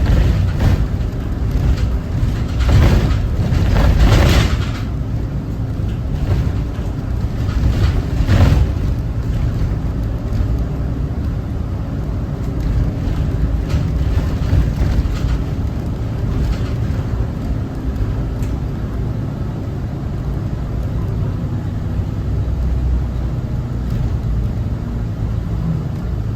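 Cummins ISB 6.7 inline-six turbo diesel of a Thomas Saf-T-Liner C2 school bus running under way, heard from inside the bus as a steady low rumble with road noise. A few brief louder rushes of noise come in the first nine seconds.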